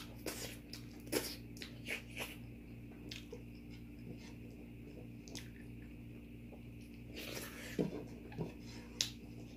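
Quiet eating sounds: scattered clicks and soft chewing, over a steady low hum.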